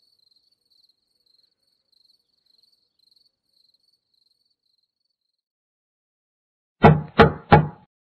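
Faint crickets chirping, dying away about five seconds in. Near the end, three quick knocks on a door.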